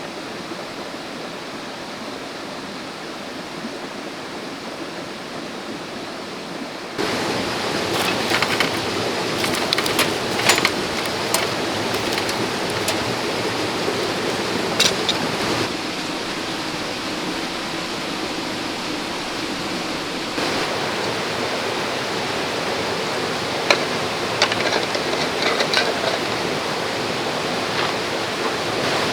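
A clear river running over stones, a steady rush of water. It jumps louder about seven seconds in, with a few sharp ticks scattered through.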